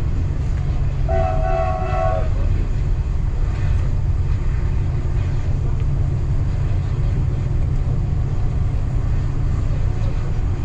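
Train running with a steady low rumble. About a second in, a train horn sounds one steady blast lasting about a second.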